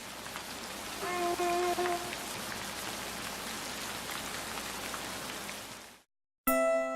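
Steady rain falling, with one steady pitched call lasting about a second, a second in. The rain cuts off a second before the end, and music begins just after.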